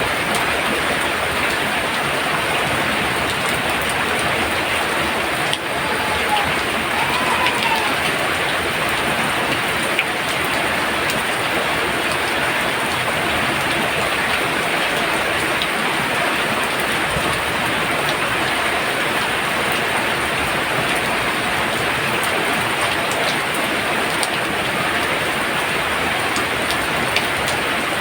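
Heavy, steady downpour of rain falling on surfaces, an even dense hiss with occasional louder drop impacts.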